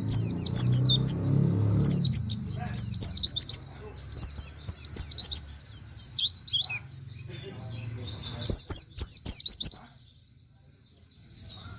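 White-eye (pleci) singing in rapid bursts of high, sharply down-slurred twittering notes, the fast 'nembak' style with canary-like phrases. The song breaks off near the end.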